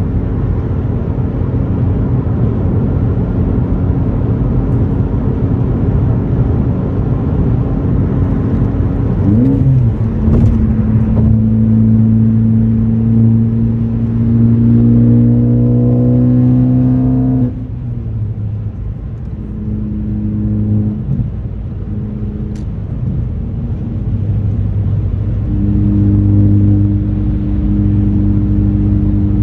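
2018 Ford Focus ST's turbocharged 2.0-litre four-cylinder engine, through an AWE axle-back exhaust, running steadily at cruise. About nine seconds in there is a quick rise and fall in revs, followed by a pull under load: the note grows louder and slowly climbs in pitch for about seven seconds, then cuts off sharply and drops back to a quieter, steady drone.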